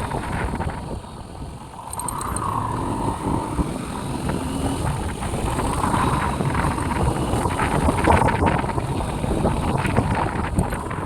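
Wind rushing over the microphone on a moving motorcycle, with engine and road noise beneath it. The sound dips briefly about a second in.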